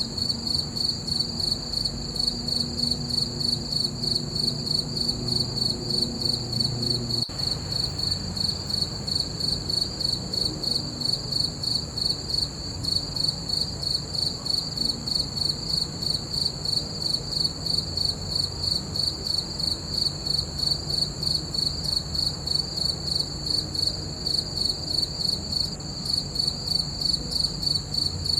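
Crickets chirping: a steady, high-pitched trill of rapid, evenly spaced pulses with no let-up.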